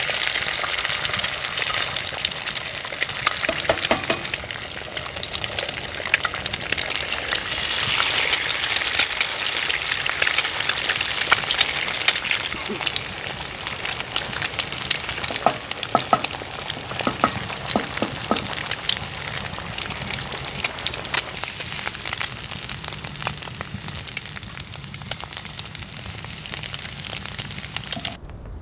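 Wood fire crackling with a dense stream of small pops and snaps.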